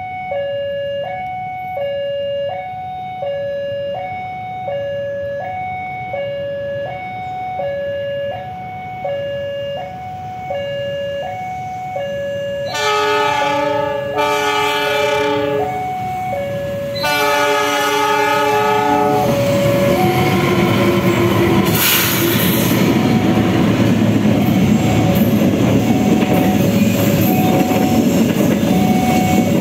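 Railway level-crossing warning alarm sounding an alternating two-note chime that changes about once a second. About halfway through, a locomotive horn sounds two long blasts. Then a passenger train passes close by with a steady rumble and clatter of wheels on the rails, while the crossing alarm keeps chiming.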